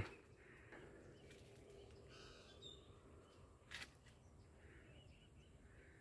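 Faint birdsong: a few scattered, distant bird calls over near silence, with one short click a little before the four-second mark.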